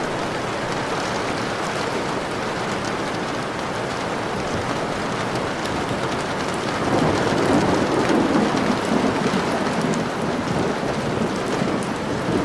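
Steady rain falling, with a low roll of thunder swelling up about halfway through and fading over a few seconds.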